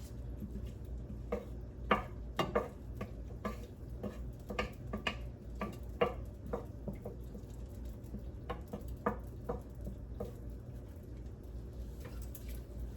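Irregular light clinks and taps of a cooking utensil against pots on a stovetop, several in quick clusters, then thinning out near the end.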